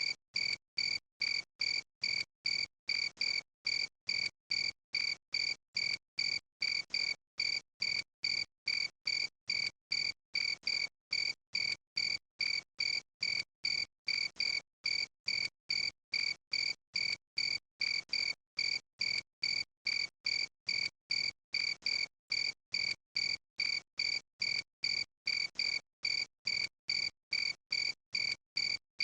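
Cricket chirping in very even pulses about two a second, each a short, steady high note with clean gaps between.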